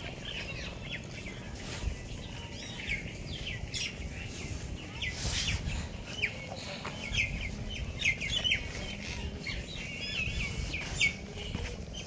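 Birds chirping busily, many short calls overlapping, over a low steady rumble, with a few sharp knocks about eight and eleven seconds in.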